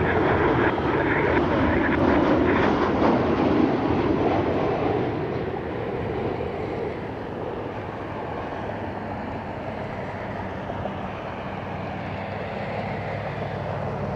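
Jet airliner engines passing on the runway, loudest over the first five seconds and then fading to a steadier, quieter rumble.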